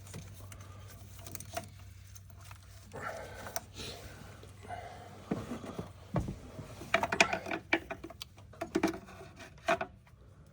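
Scattered clicks, clinks and rubbing from hand tools and engine hoses being twisted and pried loose under the hood, with a busier run of sharp clicks about seven to nine seconds in.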